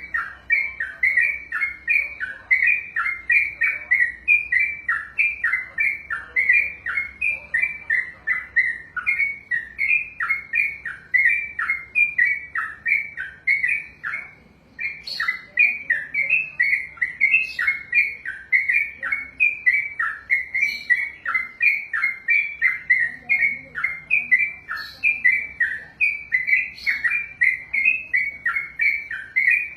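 Yellow-vented bulbul (trucukan) singing a long, rapid string of short chirping notes, about three a second, with a brief break about halfway through.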